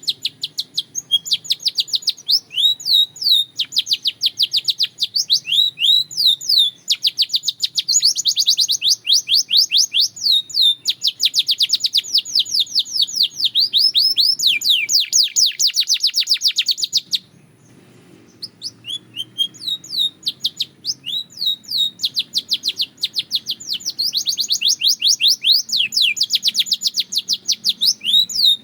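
Belgian canary singing long, fast trills of quickly repeated falling notes, changing from one trill to the next. The song breaks off for about a second and a half some two-thirds of the way through, then starts again.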